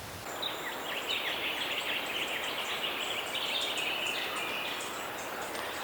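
Small birds chirping: many short, high notes overlapping in a continuous twitter over a faint steady hiss.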